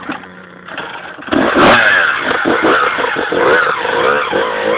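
Motorbike engine idling, then revved hard about a second in, its pitch rising and falling repeatedly.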